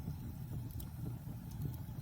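Wood fire burning in a fireplace: a steady low rumble of flame with a couple of sharp crackles.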